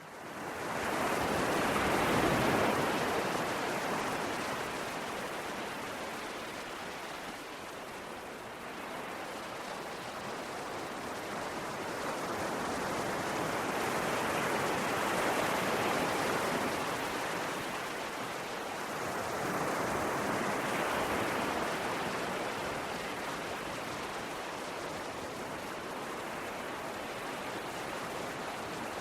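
Ocean waves washing on a shore: a steady rush of surf that swells in at the start and then rises and falls in slow surges, the biggest about two seconds in and others around the middle and two-thirds through.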